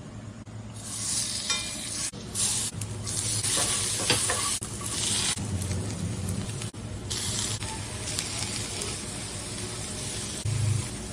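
Food sizzling in a hot pan, starting about a second in, while it is stirred, with occasional clicks of the utensil against the pan.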